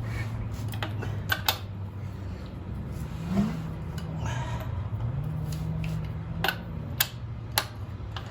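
Scattered sharp metallic clicks and clinks of hand tools working on an engine, about seven in all at uneven spacing, over a steady low hum. The hum steps up in pitch about five seconds in.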